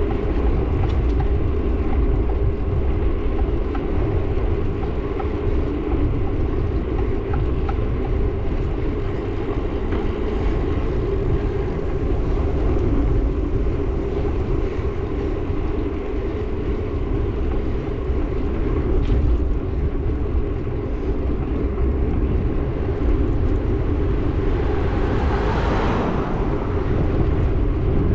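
Wind buffeting the microphone and road noise while riding a bike through traffic. A vehicle passes, swelling up and fading about 25 seconds in.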